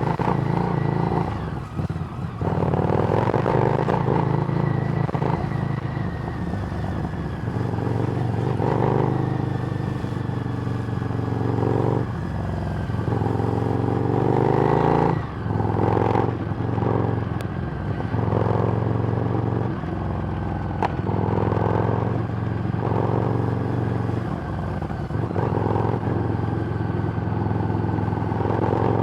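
Harley-Davidson Street Rod's 750 cc V-twin running through a Screamin' Eagle exhaust while being ridden. The engine note rises and falls, with several brief sharp drops in level.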